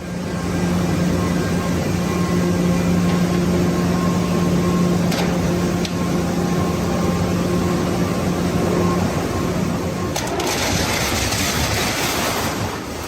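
A machine or engine running with a steady hum over a noisy rumble. The hum drops away about ten seconds in, leaving a brighter rushing noise.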